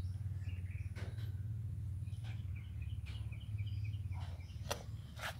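A cat eating, with a few faint clicks of chewing, while small birds chirp faintly in the background over a low steady hum.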